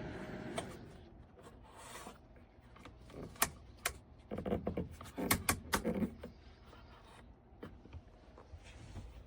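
A steady fan hum from the electric fireplace heater cuts off with a click just under a second in. Scattered sharp clicks and knocks follow, clustered in the middle, like objects being handled.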